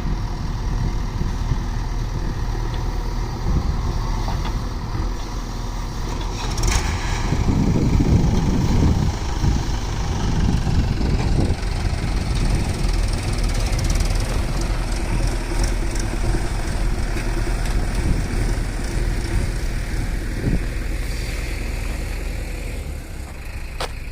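Heavy diesel engine running steadily, swelling louder for a few seconds about a third of the way in, with a single sharp knock shortly before.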